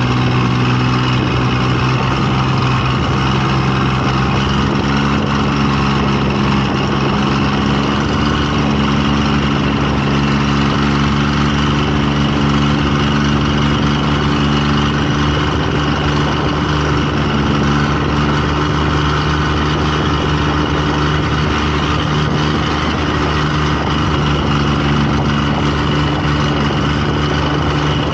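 An engine running steadily and close by, with a constant low hum that keeps an even pitch throughout.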